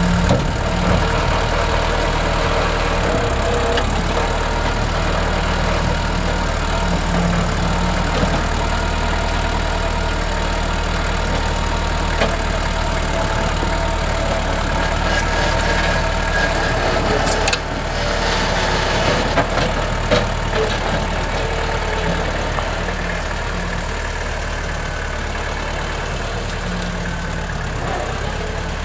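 NorTrac 35XT tractor's engine running steadily, with a few short knocks a little past halfway.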